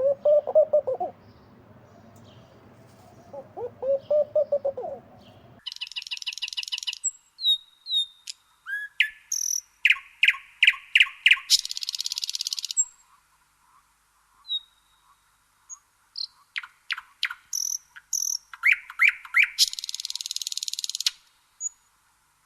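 Bird calls: two short series of low, repeated hooting notes. After an abrupt change, these give way to high chirps, short whistles and rapid trills from a small bird, with a couple of longer high buzzy trills.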